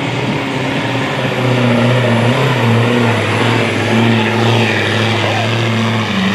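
Sport-class pulling truck's engine running flat out at a steady high pitch under load while dragging the sled, then cutting off abruptly about six seconds in.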